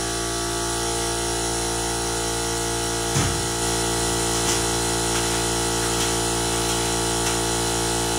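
Electric air compressor running steadily, a constant mechanical hum, with a couple of light knocks about three and four and a half seconds in.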